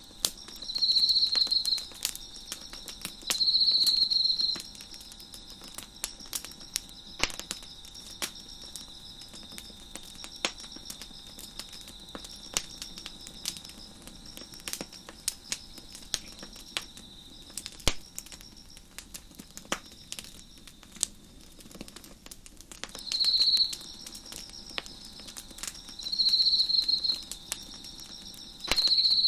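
Wood fire crackling with scattered sharp pops, over steady cricket chirping. A louder cricket trill sounds in bursts of about a second, twice near the start and several times toward the end.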